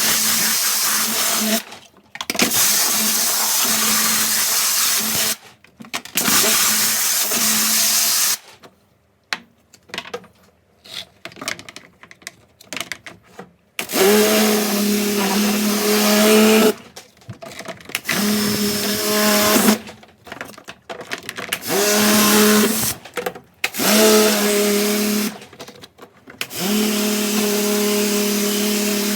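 Kärcher electric high-pressure washer spraying in repeated bursts of a few seconds: the motor-driven pump hums, rising in pitch as it starts each time, under the hiss of the water jet, and cuts out between bursts. There is a quieter pause of scattered clicks in the middle.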